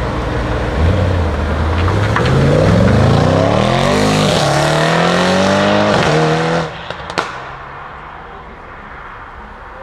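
A car's engine accelerating hard, its pitch climbing through two upshifts. About two-thirds of the way in the throttle closes with a sharp crack, and the engine drops back to a quieter run as the car moves off.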